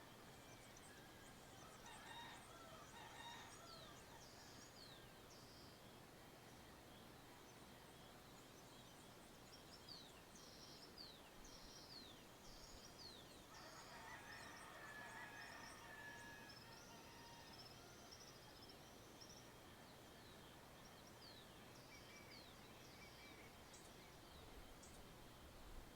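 Faint dawn chorus of small birds: many quick, high, falling chirps repeating throughout. A lower, longer call from another bird comes in twice, about two seconds in and again around the middle.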